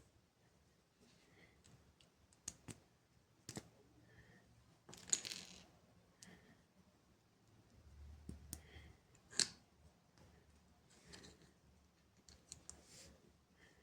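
Plastic LEGO pieces being handled: faint, irregular clicks and light clatters, with two louder clacks, about five and nine seconds in.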